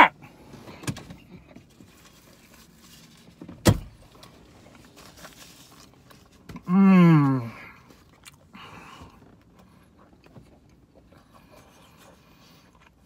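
A man quietly chewing a mouthful of hot pizza, with a single sharp click a little under four seconds in and a short vocal sound falling in pitch about seven seconds in.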